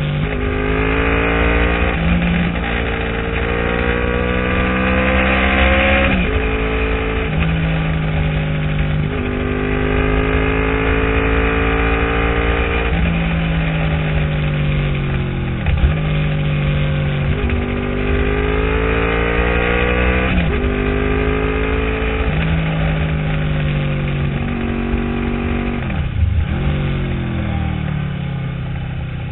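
Honda VFR800 V4 engine heard from a camera mounted on the bike, accelerating through the gears. Its pitch climbs steadily, then drops sharply at each gear change, again every few seconds. A steady wind rush sits underneath.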